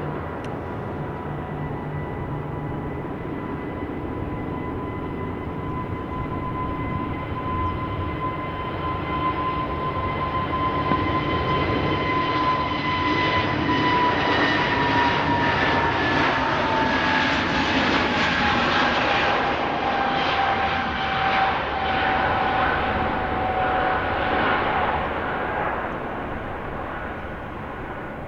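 Jet airliner's turbofan engines going past: a rushing roar under a steady whine that builds, then drops in pitch as the aircraft passes and fades.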